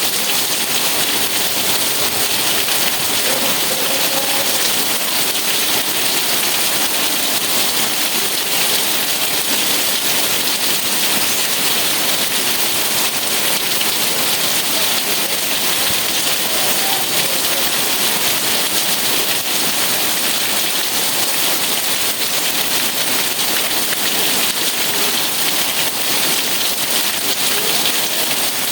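Rain falling steadily, an even hiss with no breaks or changes.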